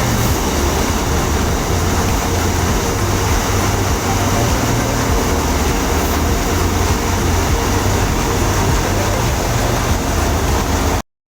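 Engine-driven farm machinery running steadily. It makes a loud, even noise over a low engine hum, then cuts off abruptly near the end.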